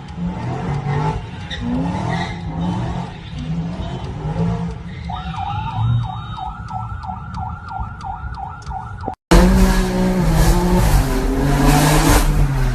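Car engines running and revving hard, with a high wavering tyre squeal that repeats a few times a second. About nine seconds in, the sound cuts abruptly to a louder clip of a car engine and exhaust rumbling.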